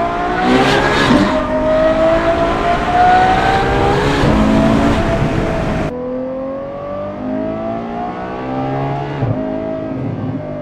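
Ferrari F12 Berlinetta's V12 accelerating hard, heard from inside the cabin with the windows down through a free-flow X-pipe and valved titanium rear exhaust. The high-pitched wail climbs in pitch, falls back about six seconds in, and climbs again.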